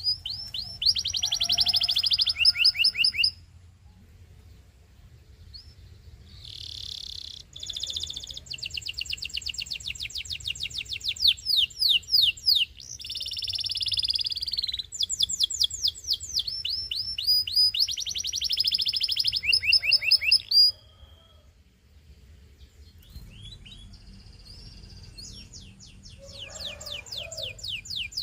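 Domestic canary singing: phrase after phrase of fast trills, each a rapid run of the same repeated note, with two short pauses, one a few seconds in and one about three-quarters through.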